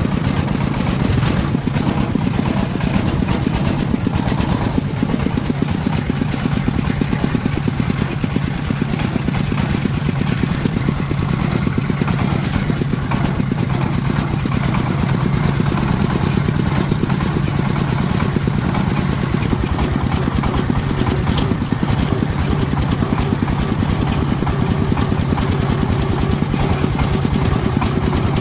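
Farm truck's engine running steadily with an even, rapid pulsing, without pause or change.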